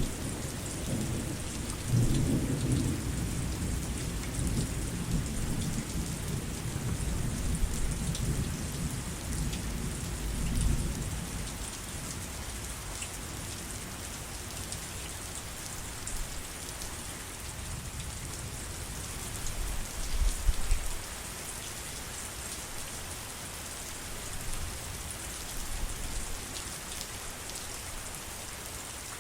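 Steady heavy rain hissing and pattering on surfaces, with rolling thunder rumbling low over the first ten seconds or so and a shorter rumble about twenty seconds in.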